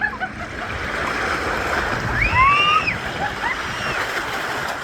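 Steady rush of water running down a multi-lane mat racing slide, with riders' excited shouts and squeals, loudest about two seconds in.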